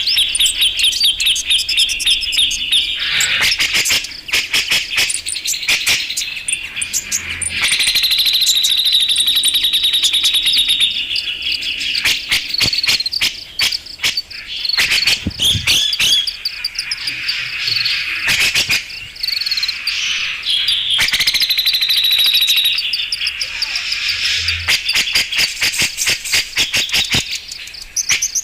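Recorded calls of a cucak jenggot (grey-cheeked bulbul) played as a bird-trapping lure. The bird gives long runs of fast, harsh, rattling trills lasting several seconds each, broken by sharp clicking chatter notes.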